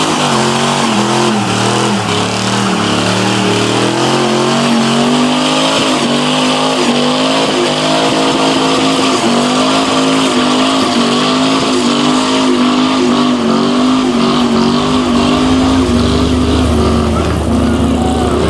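Car engines running and revving, their pitch rising and falling, with a deeper rumble joining near the end.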